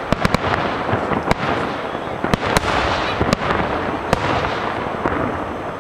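Fireworks going off: a dense crackling of bursting stars, with sharp bangs scattered through, several in quick succession right at the start.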